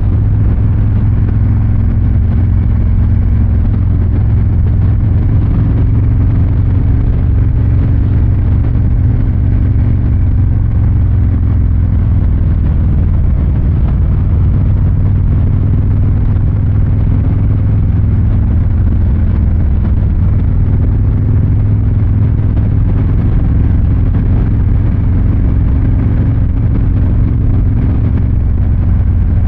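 Harley-Davidson Fat Boy 114's Milwaukee-Eight 114 V-twin exhaust rumbling low and steady while cruising, its pitch drifting gently with small changes in speed.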